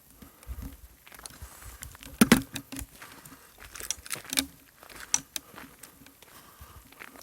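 Footsteps crunching over debris: irregular sharp clicks and crackles, loudest in a cluster about two seconds in.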